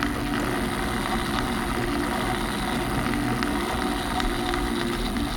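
A Lego mechanism running steadily under a small motor, a constant whir with light plastic ticks scattered through it.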